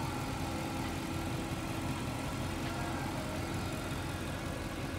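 Mercedes-Benz C63 AMG's 6.2-litre M156 V8 idling steadily, heard over the open engine bay, while it warms up after a cold start with the engine having sat overnight.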